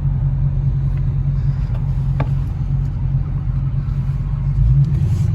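Car engine running with a deep, steady exhaust rumble that swells a little near the end.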